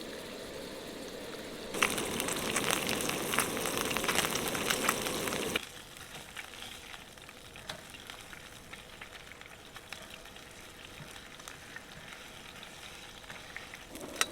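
Burgers sizzling and crackling in oil in a pan. The sizzle is loud for a few seconds, about two seconds in, then drops to a fainter hiss with scattered pops.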